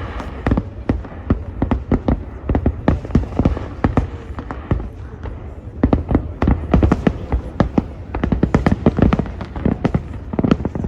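Aerial fireworks display: many sharp bangs and cracks of bursting shells in quick succession, over a steady low rumble.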